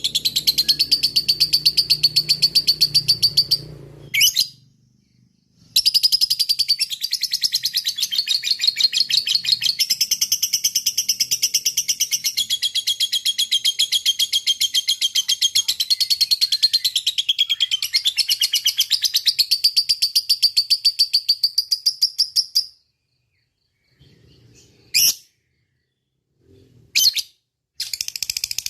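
Lovebird singing its long, rapid, unbroken chattering trill (ngekek panjang). A short run at the start breaks off after about four seconds, a long run of some seventeen seconds follows, then after a pause there are two single chirps before the chatter starts again at the end.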